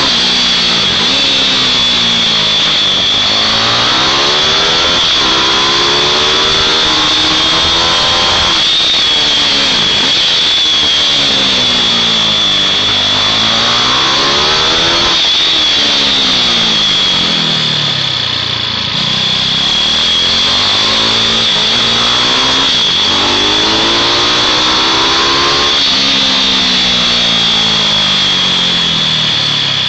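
Small mini-bike engines running hard around a track at a high, buzzing pitch. The engine note climbs and then drops again about every three to four seconds as the bikes pass and slow for the corners.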